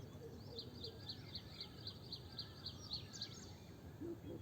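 A small bird calling in a fast, even series of short high chirps, about four a second, over a low steady background hum.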